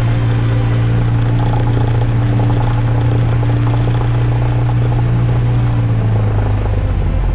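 Cessna 172's piston engine and propeller running steadily in flight, a loud, even drone heard in the cockpit. Near the end the drone's low tone shifts and a deeper rumble comes in.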